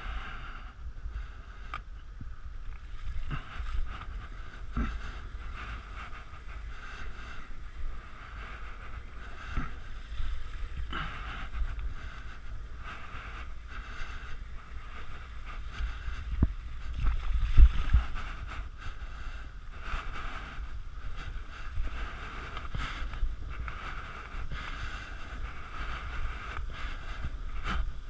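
Mountain bike riding over a trail, heard from a camera on the bike: a steady rumble and hiss from the ride with scattered knocks and rattles, and a louder stretch of rumble a little past halfway.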